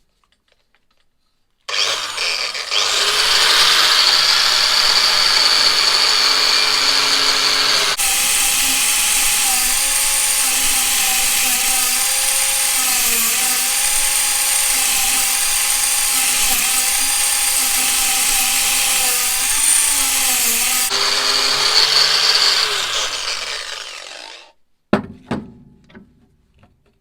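An electric power tool's motor spins up about two seconds in and runs steadily with a loud grinding hiss as it works the metal. Near the end it winds down in falling pitch, and is followed by a few light knocks of tools or parts being handled.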